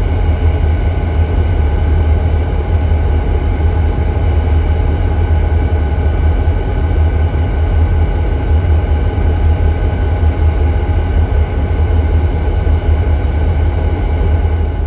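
EMD diesel-electric freight locomotives running steadily: a loud, deep rumble with steady whining tones above it.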